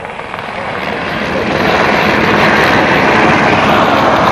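Aircraft engine noise from a race aircraft, swelling over the first two seconds and then holding steady and loud.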